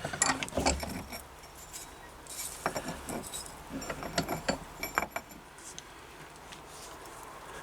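Scattered light metallic clinks and knocks as a hatchet head is turned over and repositioned for filing its other side, thinning out after about five seconds.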